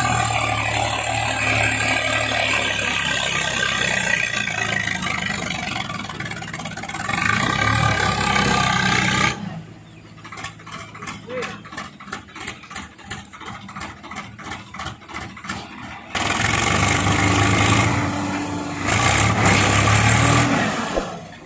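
Heavy diesel engine running and revving up. It cuts off abruptly about nine seconds in, giving way to a quieter stretch of rapid clicking, and comes back sharply about seven seconds later, revving again.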